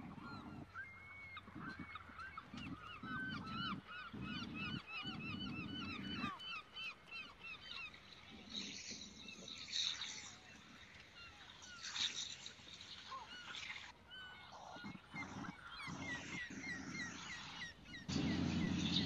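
Birds calling outdoors, many quick repeated chirps, among low rumbling gusts that are loudest near the end.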